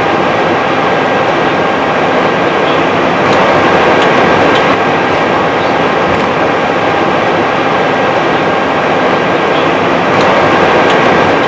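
Steady flight-deck noise of an Airbus A320 on the ground after landing: an even hiss of airflow and engines at low power, with a couple of faint steady tones running through it.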